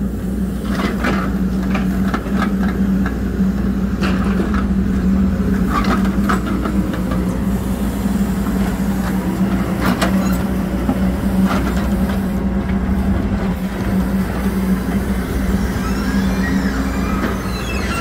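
Hidromek HMK 102S backhoe loader's diesel engine running steadily, with scattered metallic clanks from the working machine.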